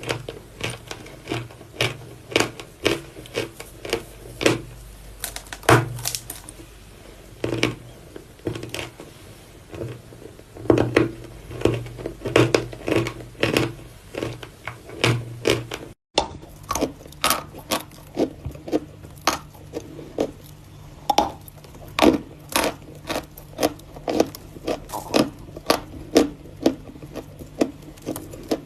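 Lumps of natural chalk being bitten and chewed close to the microphone: a run of crisp crunches, one or two a second, breaking off for a moment about halfway through.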